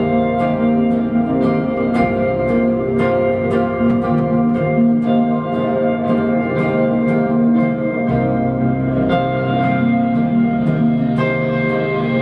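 Live indie band playing an instrumental passage: held chords over a bass line that shifts every second or two, with light, steady cymbal ticks.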